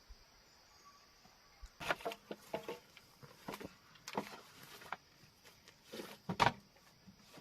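A run of irregular knocks and clatters, starting about two seconds in and ending with the loudest pair near the end.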